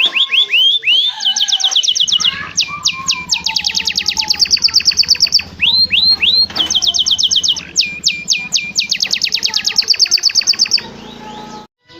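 Domestic canary singing fast, varied song: rapid trills of repeated sweeping notes, switching from one trill to the next every second or so, with a low steady hum underneath. The song breaks off near the end.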